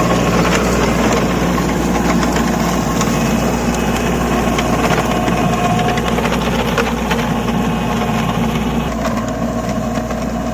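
Kubota 27 HP tractor's diesel engine running steadily, with a rattle of short clicks over it; it gets slightly quieter about nine seconds in.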